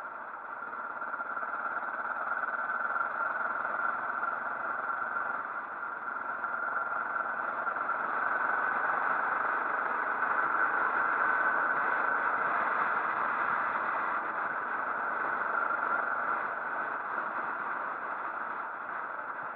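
Motorcycle running on the move, a steady mix of engine and wind noise that grows louder through the first half.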